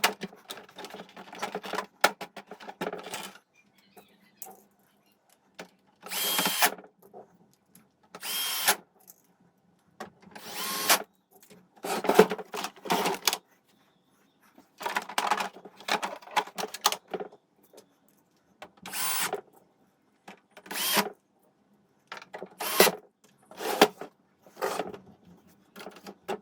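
Small power tool run in repeated short bursts of about a second each, with pauses between, over a faint low hum.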